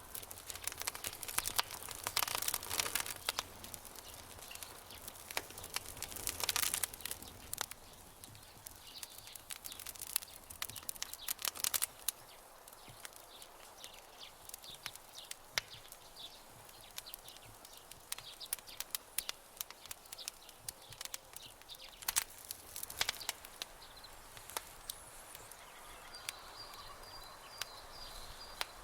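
Campfire crackling: sharp pops and snaps of burning wood, coming in dense clusters several times over a soft steady hiss. Near the end a faint high trill runs along under the fire.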